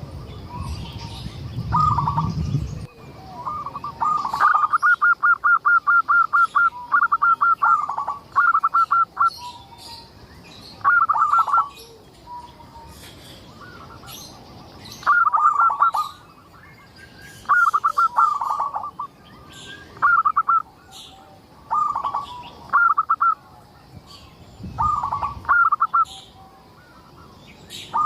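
Zebra dove (perkutut) singing: about ten loud phrases, each a quick run of staccato cooing notes, with short pauses between them. Fainter high chirps of small birds and a low rumble in the first few seconds lie under the song.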